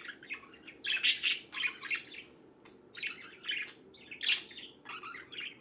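Pet budgies chirping and warbling in short, scattered bursts, loudest about a second in and again near four and a half seconds.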